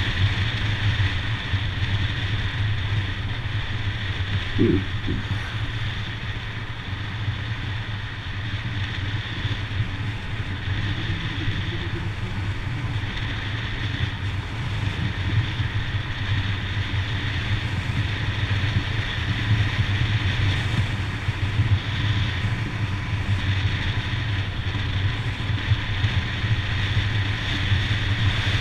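Motorcycle engine running steadily on the move, with wind noise on the microphone; a short higher-pitched tone about four and a half seconds in.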